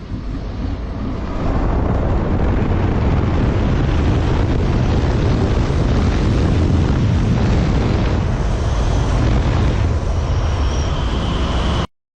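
Heavy wind noise buffeting the microphone during a fast ride on a DIY electric bike. It starts abruptly, grows louder about a second and a half in, and cuts off suddenly near the end, with a faint high whine coming in late.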